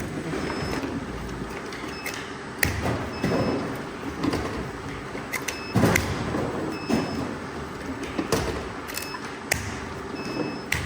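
Factory machinery running with a steady hum, broken by irregular sharp knocks and clanks, and a few short faint high beeps.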